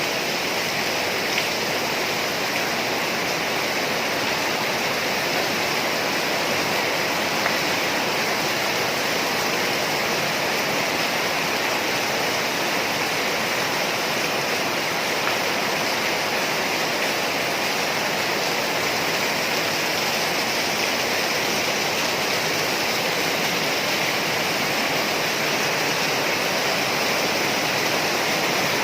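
Heavy rain pouring down steadily, a dense, even rush of water that does not let up.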